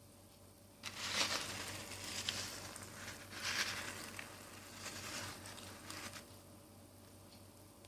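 Rustling, scraping handling noise that starts suddenly about a second in and comes in irregular surges for about five seconds before stopping.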